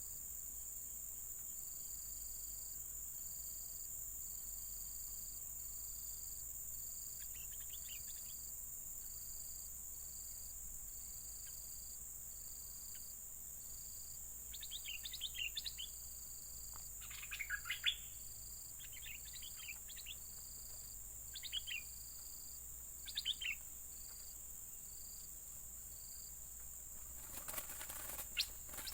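Bulbuls (merbah kuning) calling in short bubbly chirping phrases, over a regular pulsing insect trill and a steady high hiss. A brief rustle near the end.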